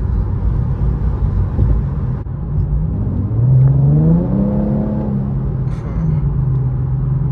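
2015 Infiniti Q50 3.7's V6 engine heard from inside the cabin over steady road rumble. About three seconds in, the engine note rises as it revs up, holds high for about a second, then drops back to a lower steady drone.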